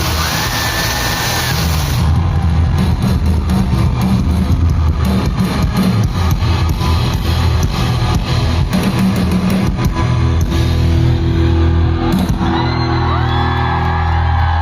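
Live rock band playing loud, with guitar over heavy bass and drums; over the last few seconds held high notes slide up and down above the band.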